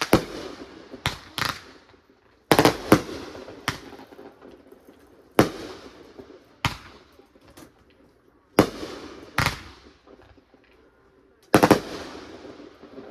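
Aerial fireworks bursting in the sky, a sharp bang every second or so. Each bang trails off in a brief fading echo, with a close double bang about two and a half seconds in and again near the end.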